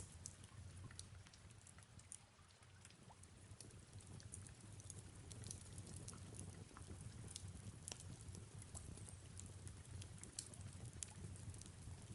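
Faint fireplace ambience: irregular small crackling pops over a soft, steady rain hiss, with a low steady hum underneath.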